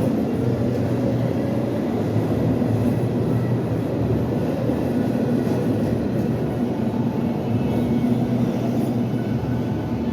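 R68 subway train running, a steady rumble with a low, even hum.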